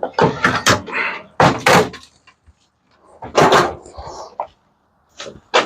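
A microwave oven's sheet-metal casing and parts banging and clanking, in about four loud knocks a second or so apart, as it is pried and knocked apart.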